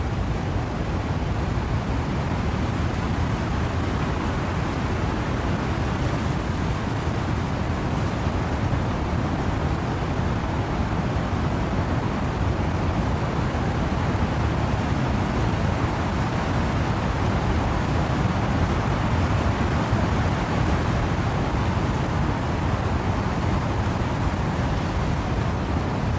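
Steady rain with wind blowing through trees: an even, unbroken rush of noise, heaviest in the low end.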